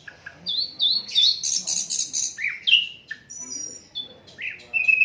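Sikatan londo flycatcher singing a fast, varied song of chirps and whistled notes. Near the end it moves into one long, steady whistled note.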